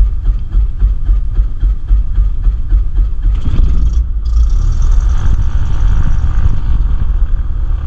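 Cessna 172's piston engine running just after start, idling with an even pulsing about four times a second. About three seconds in the engine speeds up and smooths out, and a steady hiss joins a second later.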